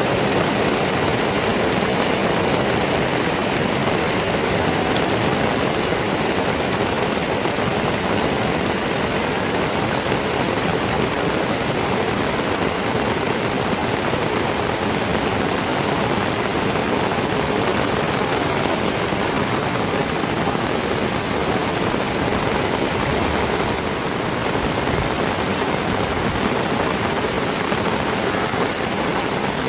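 Heavy tropical rain falling steadily, a dense even hiss with no letup.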